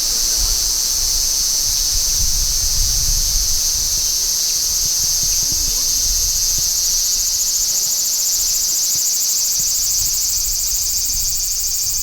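Large brown cicada (Graptopsaltria nigrofuscata) singing: a steady, loud, high-pitched buzzing drone that becomes finely pulsing in the second half, with a low rumble underneath.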